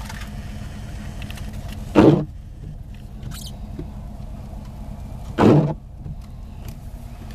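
Car cabin noise from driving on a snowy road: a steady low rumble of engine and tyres. Two short, louder sounds stand out, one about two seconds in and one about five and a half seconds in.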